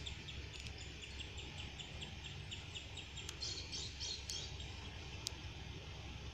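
Small birds chirping: an even run of short chirps, about four a second, then louder, higher chirps a little past the middle, with a few sharp clicks, over a steady low hum.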